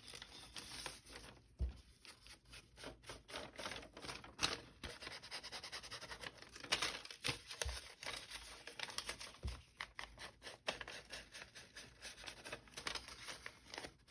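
Ink being rubbed and dabbed onto the brown paper of a taken-apart paper bag: a run of short, soft scratchy strokes at an uneven pace.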